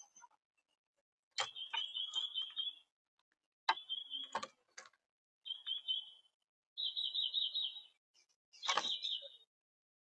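Young red-bellied woodpeckers calling in five bursts of rapid, high, trilled notes, each about a second long. Sharp clicks or knocks come at the start of several bursts.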